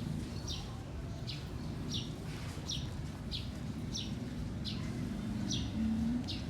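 A bird chirping over and over: short, high chirps that fall in pitch, about three every two seconds, at an even pace.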